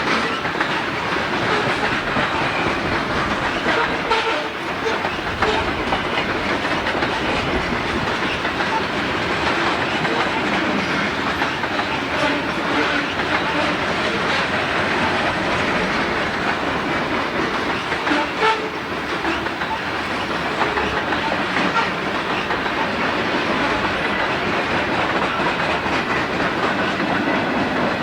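Freight train rolling past, its wheels clattering steadily over the rail joints with scattered clicks and rattles from the cars.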